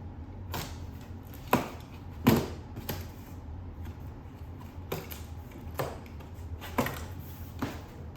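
Cardboard packaging and its contents being handled: a series of short knocks and rustles, the loudest about two seconds in.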